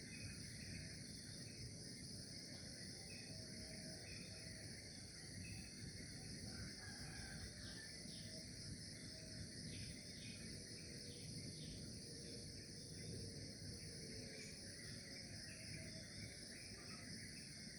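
Outdoor morning ambience: a steady, faint chorus of insects trilling high, with short bird calls scattered through it over a low background noise.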